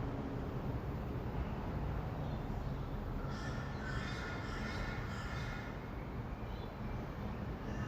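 Rainbow lorikeets calling, a cluster of calls starting about three seconds in and lasting a couple of seconds, over a steady low hum of distant city traffic.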